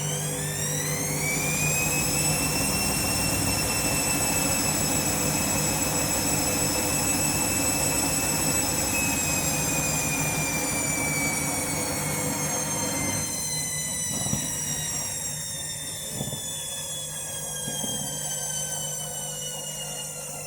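Candy washing machine's drum motor whining up to a 400 rpm spin: the pitch rises over the first two seconds, holds steady, then slowly falls as the drum begins to slow. A few light knocks come near the end.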